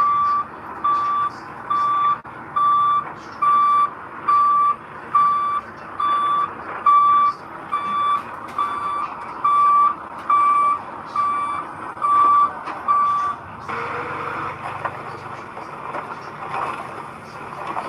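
Reversing alarm on a piece of heavy construction equipment, beeping steadily at one pitch a little more than once a second, then stopping about three-quarters of the way through. A vehicle's engine runs underneath and stands out once the beeping stops.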